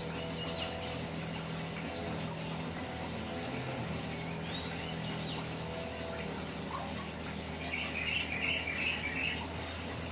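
Birds chirping over a steady water-like rush with a low hum; a quick run of chirps about eight seconds in is the loudest part.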